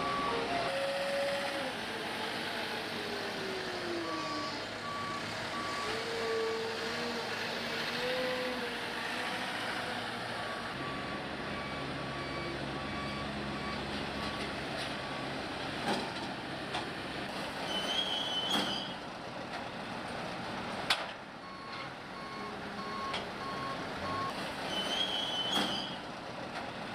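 A vehicle's reversing alarm beeping in repeated short pulses over steady engine noise, with a few sharp clicks.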